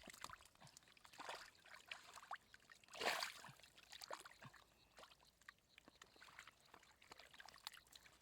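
Faint water sounds: small trickles and splashes, with one louder splash or pour about three seconds in.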